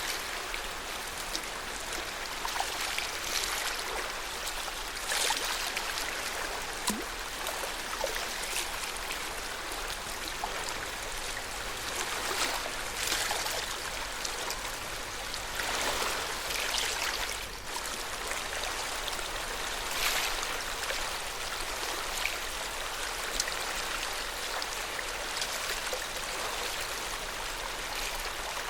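Water of Lake Yamanaka lapping gently: a steady wash with soft splashes every second or few seconds.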